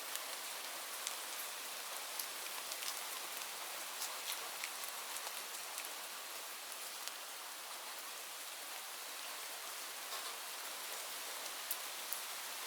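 Steady rain falling, an even hiss broken by frequent sharp ticks of single drops landing.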